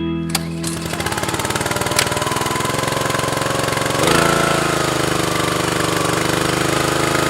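A small petrol engine starts running about a second in, then picks up speed around four seconds in and holds steady.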